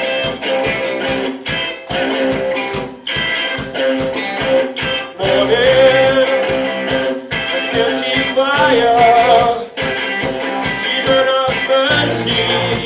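Live rock band playing: guitars over a steady, choppy beat, with a wavering melody line coming in about five seconds in.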